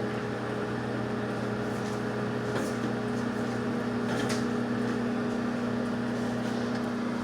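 Microwave oven running on its popcorn setting, a steady hum, with a couple of faint clicks about a third and halfway through.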